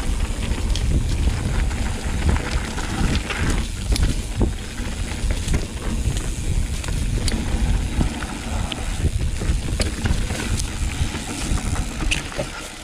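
Mountain bike riding a dirt trail: heavy wind rumble on the microphone, with tyre noise and the rattle and clicks of the bike over rough ground.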